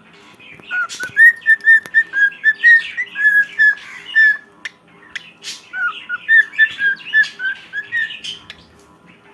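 Cockatiel whistling its song: two runs of quick, short whistled notes, the first from about a second in and the second after a brief pause about halfway, with scratchy chatter mixed in.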